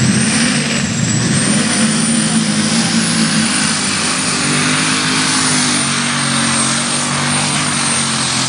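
Unlimited super stock pulling tractor's alcohol-burning engine running flat out under load during a pull, with a high turbo whine that climbs just as the sound begins and then holds steady.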